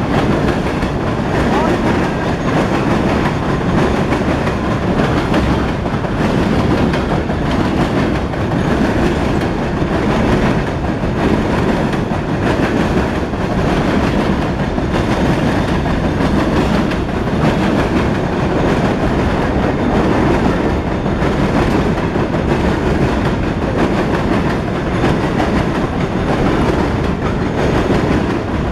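Loaded freight cars of a CSX rock train rolling steadily past on the rails, a continuous loud rumble and rattle of wheels with no horn.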